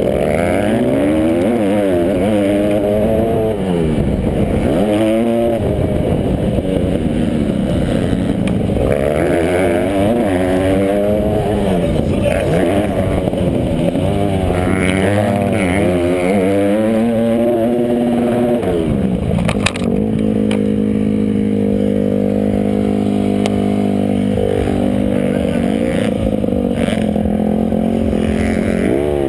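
Motocross motorcycle engines revving up and down through the gears as the bikes race, the pitch rising and falling over and over. About two-thirds of the way in, this gives way to a steadier engine note.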